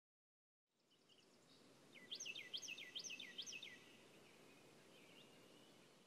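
Faint outdoor ambience with a bird calling: a quick run of about four sweeping chirps, with a few softer chirps before and after. It fades in about a second in.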